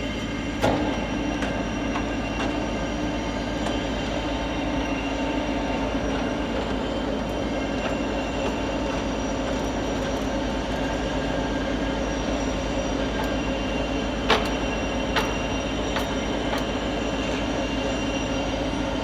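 Metallexport TUD-50 centre lathe running, its headstock gearing giving a steady whine of several tones over a low hum. A few sharp clicks sound over it, twice close together about fourteen seconds in.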